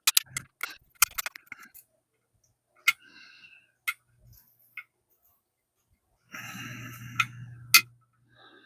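Sharp clicks and taps of small microscope parts being handled and pried during disassembly, rapid at first, then a few single clicks. About six seconds in comes a buzzing rattle lasting under two seconds, ending in a loud click.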